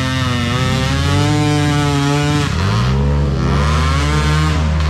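Dirt bike engine revving hard under throttle. The pitch holds high, drops about halfway through, climbs and holds again, then drops near the end.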